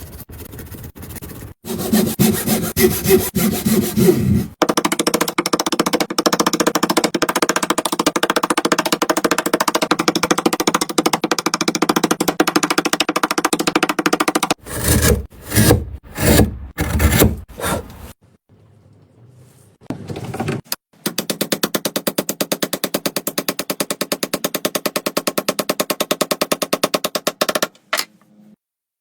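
Wood being cut, a rapid run of rasping scrapes in several long passes, with a few short separate strokes and a brief pause in between.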